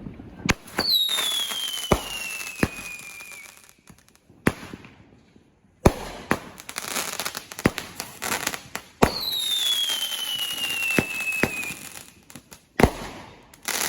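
A 200-gram consumer fireworks cake, Pyro Predator's Mental Breakdown, firing its shots: sharp bangs from the tubes with a crackling hiss between. Twice, about a second in and again about nine seconds in, a long whistle falls in pitch over about three seconds.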